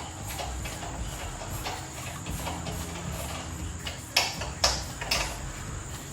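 Three sharp knocks about half a second apart, a little past halfway, over a steady hum and hiss, with fainter ticks before them.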